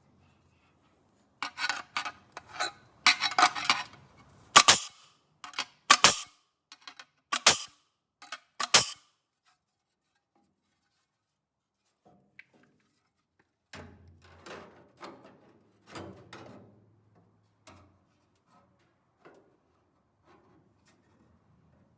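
Sharp metallic clicks and snaps from hand work on sheet metal. There is a quick run of them, then four loud cracks about a second and a half apart, and later a softer spell of knocks and rubbing.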